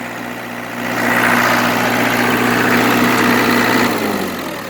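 Ford New Holland 5030 tractor's diesel engine running steadily, freshly started on a new starter motor. It gets louder about a second in, then winds down and stops near the end.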